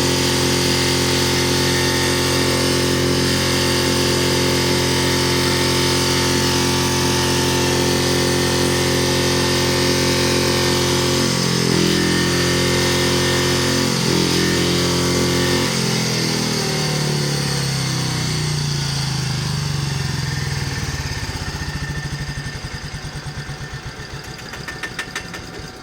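Piaggio diesel engine in runaway, running flat out at a steady high speed, then faltering about twelve seconds in. From about sixteen seconds it winds down, its note falling until separate firing beats can be heard, and it is nearly stopped at the end.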